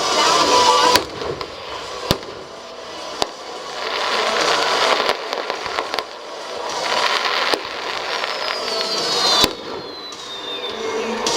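Stadium fireworks display: sharp bangs every second or two over a continuous crackling rumble of bursts, with a thin falling whistle near the end.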